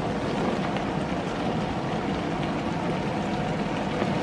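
Beef and carrots sizzling steadily in a wok as diced raw potatoes are tipped in from a plastic cutting board, with a few light ticks, over a steady low hum.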